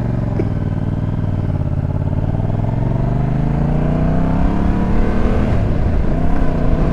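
Motorcycle engine under way, its pitch rising steadily as it accelerates, then dipping briefly near the end before picking up again.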